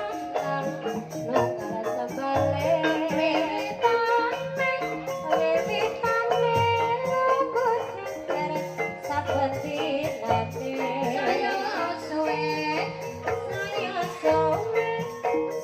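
Traditional Banyumas-style Javanese music: a sinden singing with wavering, ornamented lines over dense pitched percussion and drums.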